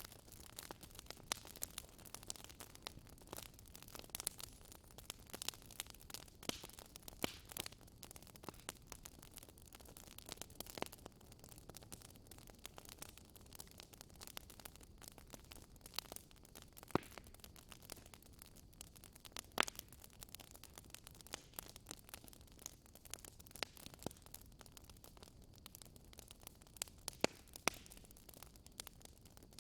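Fire in a fireplace crackling, with irregular sharp pops, a few louder than the rest, over a low steady rumble.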